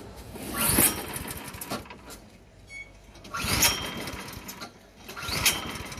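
Briggs & Stratton 163cc snowblower engine being cranked in three short bursts of about a second each, a couple of seconds apart, without catching.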